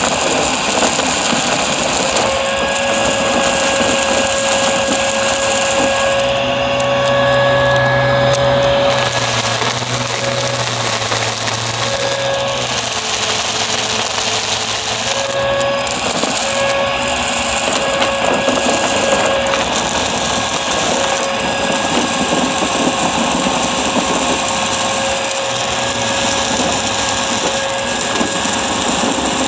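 Upright vacuum cleaner running continuously, with a steady motor whine over a dense crunchy rattle of debris being picked up.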